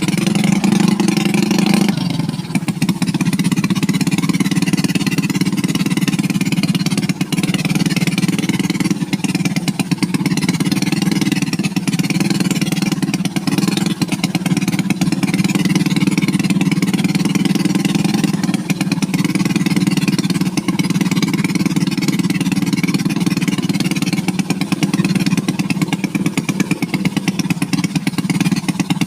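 Motorcycle engine running steadily while riding, with a drop in engine pitch about two seconds in.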